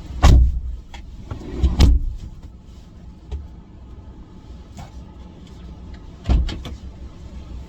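Three heavy thumps as bulky baby gear is loaded into a car: two about a second and a half apart at the start, a third about six seconds in, over a low steady rumble.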